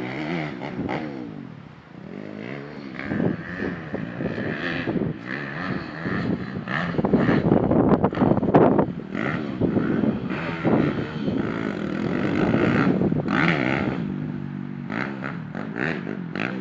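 190cc dirt bike engine being ridden, its pitch rising and falling again and again as the throttle is opened and closed.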